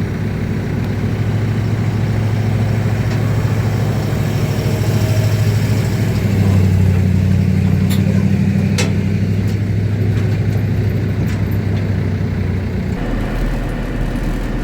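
Ford 6.7 Powerstroke V8 turbo-diesel pickup engine running steadily while towing a loaded gooseneck trailer. The engine note changes about six seconds in, and the sound shifts again near the end.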